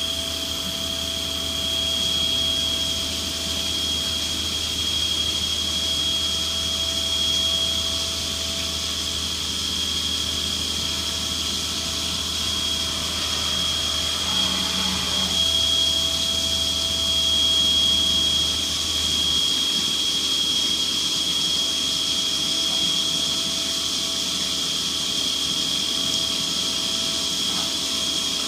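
CNC milling machine running a cut: a steady high spindle whine over a broad hiss. A low hum drops out about two-thirds of the way through.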